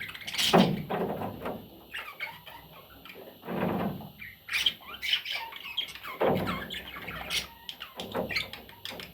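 Pet budgerigar chattering with squawks and chirps in uneven bursts, the loudest about half a second in.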